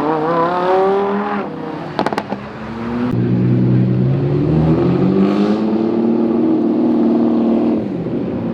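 High-performance car engines accelerating hard: one revs up, climbing in pitch, then backs off. A few sharp cracks come about two seconds in, followed by a long high-revving pull that rises slowly and drops away near the end.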